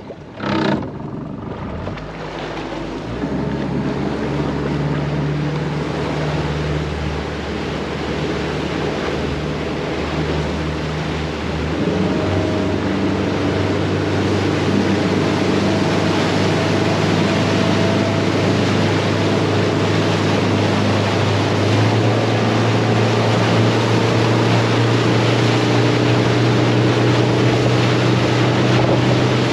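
Motorboat engine running under way, stepping up in speed about three seconds in and again around twelve and twenty-two seconds, over a steady rushing hiss of water and wind. A single knock just before the engine picks up.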